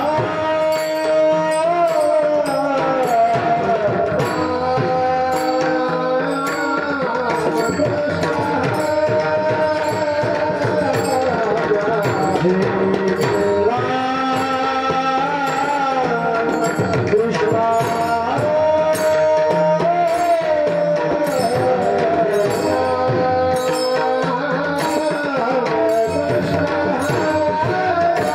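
Marathi bhajan: a male voice singing long, gliding held notes, accompanied by mridang drumming and a regular beat of sharp, bright strokes keeping time.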